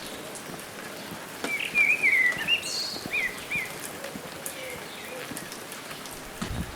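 A small bird sings a quick run of short, bending chirps for about two seconds, starting a second and a half in, over a steady outdoor hiss with faint scattered crackles.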